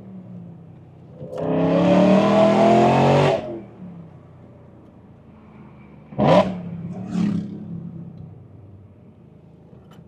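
BMW E92 M3's S65 V8 with a titanium exhaust, heard from inside the cabin: a hard pull with the revs rising for about two seconds, cut off sharply as the throttle is lifted. A few seconds later come two quick throttle blips about a second apart, for rev-matched downshifts, before the engine settles back to a low hum.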